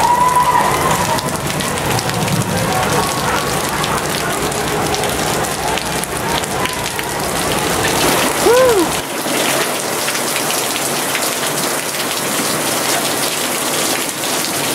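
Heavy rain pouring down on a cruise ship's open deck and its glass railings, a dense, steady hiss. A brief rising-then-falling tone stands out about eight and a half seconds in.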